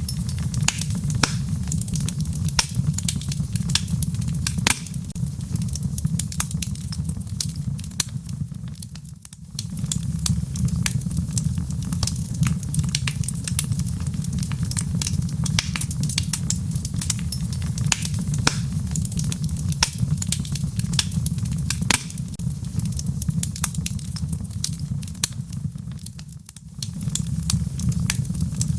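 Wood fire crackling in a fireplace: a steady low rumble under dense sharp pops and snaps. The sound dips briefly twice, about a third of the way in and near the end.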